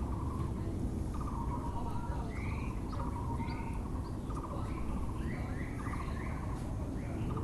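Several wild birds calling, among them a Taiwan (Müller's) barbet repeating its short call over and over, with higher arching notes from other birds. Beneath them runs a steady low rumble of urban background noise.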